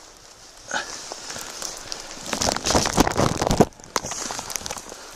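Crackling, rustling noise of blizzard wind and blowing snow on the microphone, with a stronger gust buffeting it for about a second midway through.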